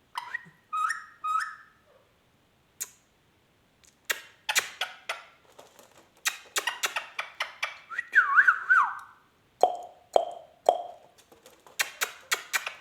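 Ringneck parakeet calling: a few short warbling notes, then a run of sharp clicks and squawks, a falling warbled whistle about eight seconds in, and three short lower notes just after.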